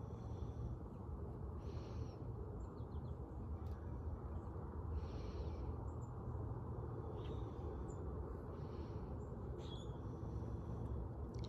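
Wild birds calling, short raspy calls coming about every two to three seconds with a few brief chirps between them, over a steady low outdoor rumble.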